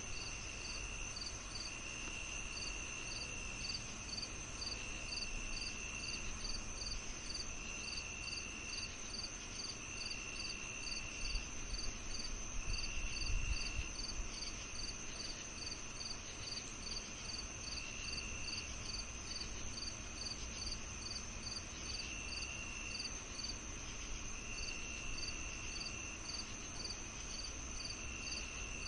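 Summer evening chorus of crickets and other insects: one high steady trill, a regular pulsing chirp a few times a second, and a lower trill that comes in spells of about a second every couple of seconds. A faint low rumble swells briefly about halfway through.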